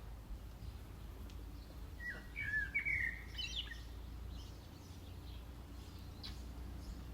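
A small bird chirps a quick run of high, warbling notes for about a second and a half, starting about two seconds in, over a steady low rumble.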